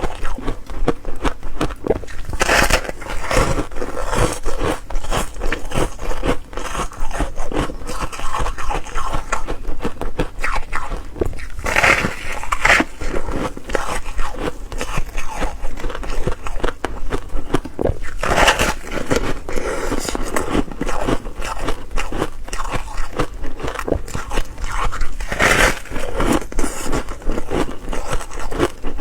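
Ice being bitten and chewed: a continuous crackling crunch of ice breaking between the teeth, with a few louder bites scattered through.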